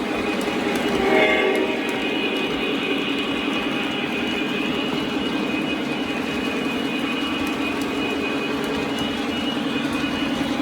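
Lionel O-scale Kansas City Southern locomotive running on the track, its onboard sound system giving a steady engine sound, with a brief louder swell about a second in.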